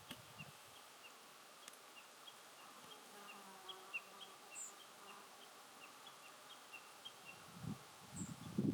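Faint outdoor ambience: a soft droning buzz with a steady series of short high chirps, about three a second. Two thin, very high calls come about halfway and near the end, with a few low thumps just before the end.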